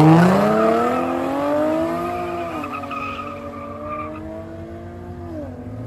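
A race car's engine accelerating hard down the track. Its pitch climbs steeply at first, keeps rising more slowly for about two seconds, then holds while the sound fades as the car draws away, dropping in pitch near the end.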